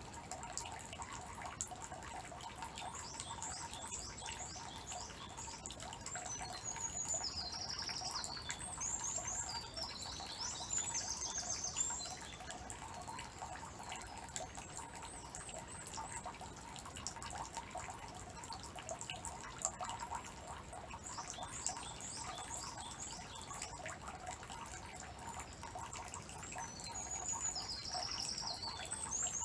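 Water trickling and dripping steadily into a shrine's purification basin (temizuya), with small songbirds chirping and trilling over it in two spells: one from a few seconds in, and again through the second half.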